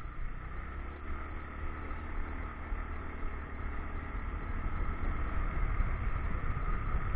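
Motorcycle engine running under way with road noise: a steady low rumble that grows somewhat louder over the second half.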